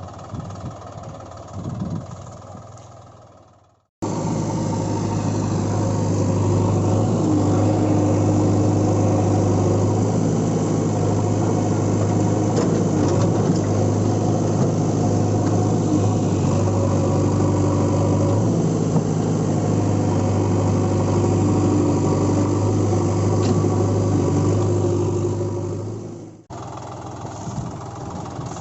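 Vehicle engine running steadily with a deep, even hum. It starts abruptly about four seconds in and cuts off suddenly near the end, as spliced-in engine audio does.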